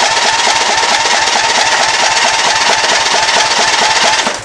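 Electric starter cranking a 16 hp overhead-valve Briggs & Stratton lawn tractor engine. The engine turns over with a steady rhythmic chug and a starter whine, but it never catches. The cranking stops near the end: the engine cranks but won't start.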